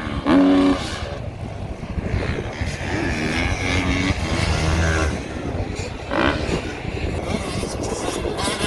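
Dirt bike engines running, their note rising and falling.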